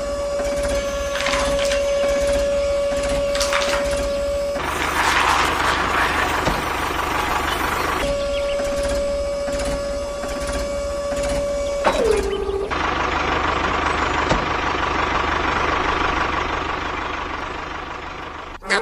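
Small electric motor of a radio-controlled model tractor whining at one steady pitch, cut off abruptly twice. Between the two runs there is a rougher, noisier stretch. About twelve seconds in, the whine slides down in pitch as the motor slows, then gives way to a steady mechanical hiss.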